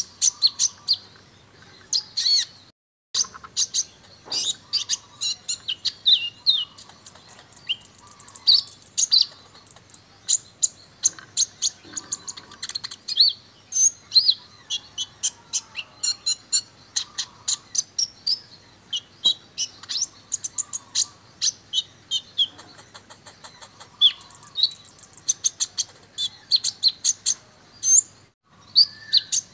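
Kolibri ninja (sunbird) singing a dense, fast run of high chirps, sharp ticking notes and rapid trills, the 'tembakan' bursts prized in a songbird training recording. The song breaks off briefly twice.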